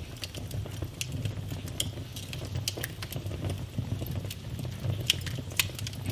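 Wood fire burning in a fireplace: a low steady rumble with frequent sharp crackles and pops, two louder snaps about five seconds in.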